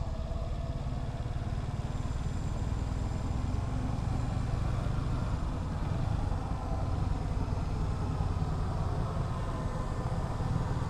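Yamaha Vixion R motorcycle running on the move, a steady low rumble mixed with wind buffeting on the microphone.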